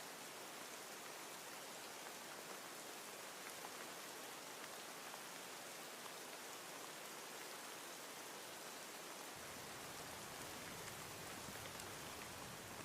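Steady rain with a faint patter of drops, as a rain-sounds ambience. A low rumble joins underneath about nine seconds in.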